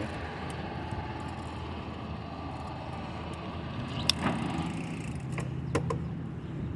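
Steady noise of a bicycle being ridden, with a few sharp clicks about four and six seconds in and a low hum that comes in around the middle.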